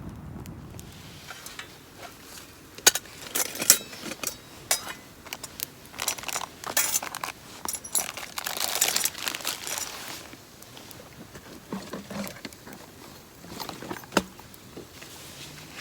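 Camping gear being handled: sharp metallic clinks and knocks mixed with crinkling and rustling, two louder knocks about three and four seconds in and the busiest handling from about six to ten seconds in.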